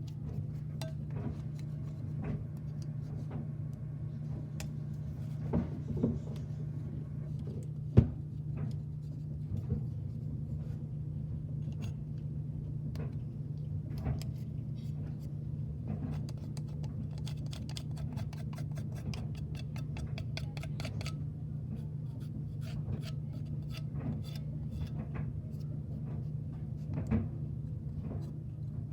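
Small objects and tools clicking and tapping as they are handled on a table, over a steady low hum, with one sharper knock about eight seconds in.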